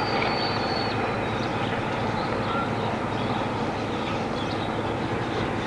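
Steady low rumble of a train out of sight, with a few faint short chirps over it.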